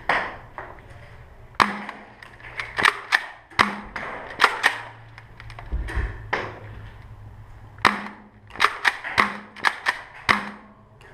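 Foam-dart blasters firing during a Nerf game: more than a dozen sharp snaps at irregular spacing, some in quick runs about two-thirds of the way through.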